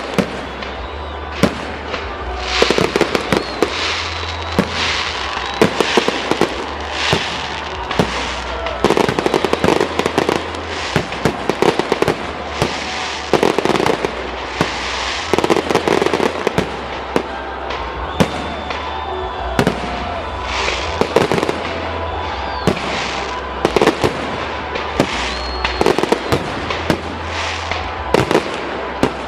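Fireworks display: a continuous string of sharp shell bursts and bangs, several a second at times, with crackling between them.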